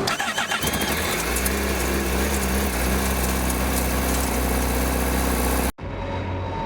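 Honda CBR1000RR-R's inline-four engine idling with a dry, metallic rattle, which the owner traced to the catalytic converter coming apart inside the exhaust. Near the end the sound cuts off abruptly and a quieter engine sound follows.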